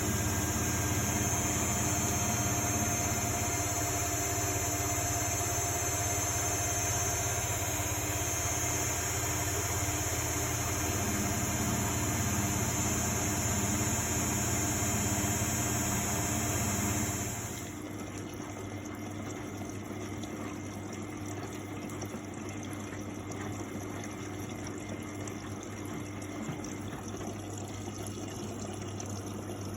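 Miele Novotronic W828 washing machine running: a steady motor hum with a high whine, which cuts off abruptly about two-thirds of the way through. A quieter, steady sound of water follows.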